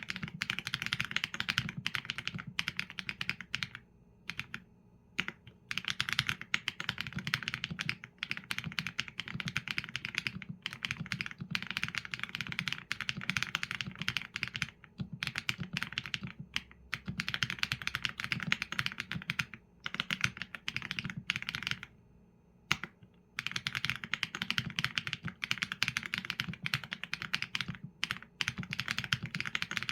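Steady fast typing on a Qsenn A75 mechanical keyboard with Leobog Graywood V4 linear switches and PBT keycaps, the keystrokes coming in quick runs with a few short breaks.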